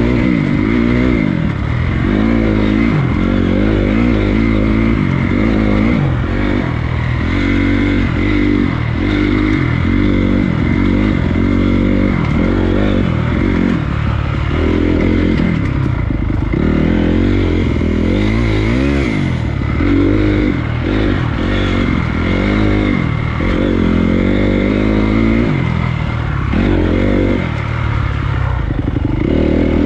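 Honda CRF250 dirt bike's single-cylinder four-stroke engine being ridden hard, its pitch rising and falling every second or two as the throttle is opened and closed and the gears change.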